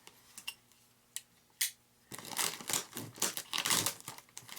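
A few light clicks, then from about two seconds in a steady run of crinkling and rustling as taped plastic packaging is handled.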